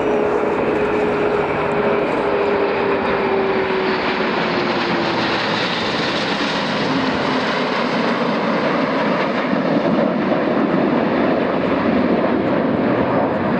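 Airbus A400M's four turboprop engines and BAE Hawk jets flying past together in formation: a loud, steady mix of turboprop and jet engine noise. A propeller tone drops in pitch about five seconds in as the formation passes.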